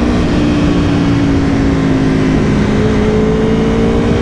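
2022 Aprilia Tuono V4 Factory's V4 engine running while riding, its pitch easing slightly and then climbing slowly in the second half, over a steady rush of wind noise.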